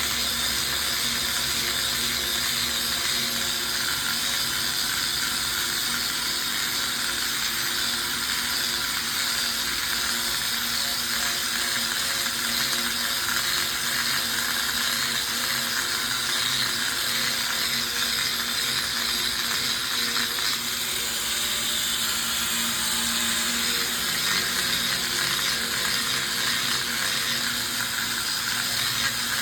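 Steady mechanical whirring and rattling from a running machine, unchanging throughout.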